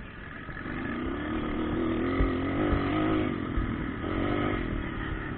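Motocross bike engine revving, its pitch wavering up and down as it gets louder about half a second in, with a second burst of revs near four seconds in.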